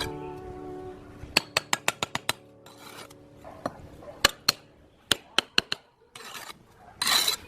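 Handwork on building material: a quick run of sharp clicks and taps, then short rasping strokes, the loudest near the end, like filing or sanding.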